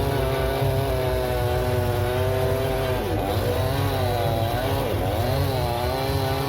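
Small two-stroke power-tool engine running at high revs, its pitch dropping sharply twice as it bogs under load while cutting, then recovering.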